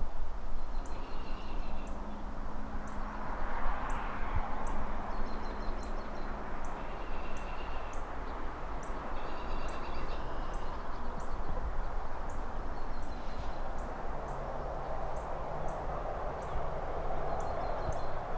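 City ambience: a steady wash of distant traffic, with a vehicle swelling past about four seconds in, and birds chirping in short bursts over it. Trees rustle in the wind.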